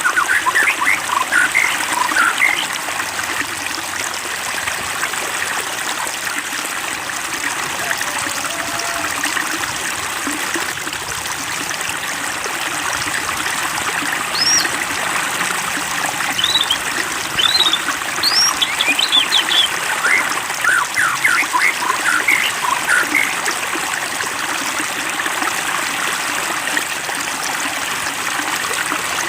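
Water trickling steadily, with clusters of short, high plinks near the start and again through the middle.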